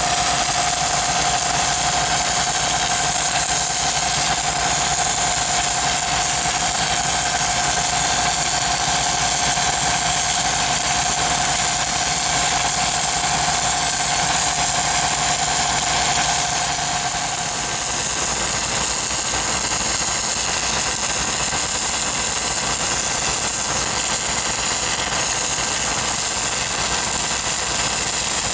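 Engine-driven welding machine running steadily, with a constant high hiss over it. A steady whine stops about two-thirds of the way through.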